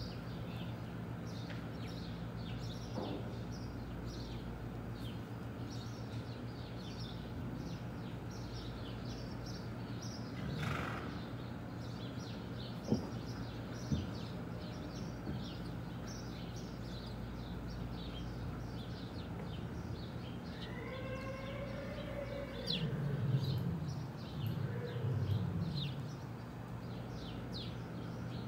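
Small birds chirping in quick, scattered peeps over a steady low hum. Two sharp knocks come about halfway through, and a louder pitched call that rises and falls comes near the end.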